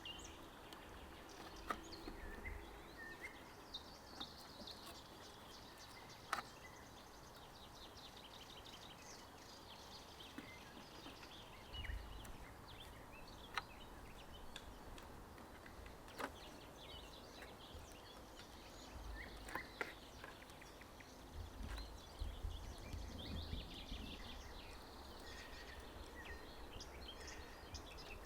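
Faint forest ambience with birds chirping and calling on and off. A few sharp clicks or knocks come through at intervals.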